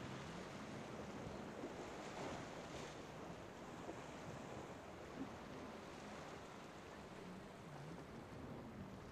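Steady wash of surf and wind with a passing boat's engine droning faintly underneath, its pitch dipping and rising just after the start and again near the end.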